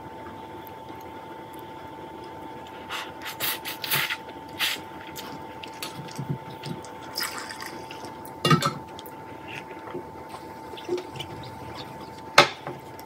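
Close-up wet chewing and mouth smacks of a person eating dry-fried instant noodles with scrambled egg, in scattered clusters with a sharp click near the end, over a faint steady whine.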